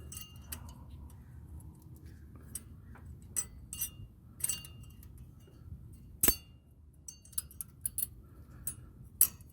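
Thin metal brake shim being worked by hand into a car's front brake caliper assembly: scattered light metallic clicks and clinks, with two sharp clicks about six and nine seconds in as it snaps into place.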